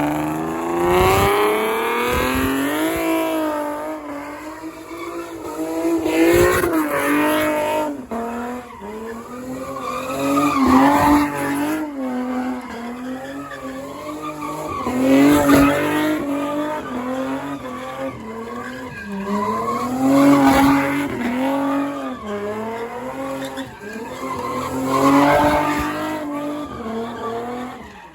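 A car engine revving high with tyres squealing as the car slides sideways. The engine note rises and falls about every four to five seconds.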